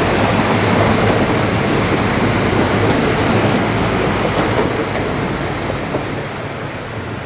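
A train running past close by, its rumble of wheels on rail slowly dying away over the last couple of seconds.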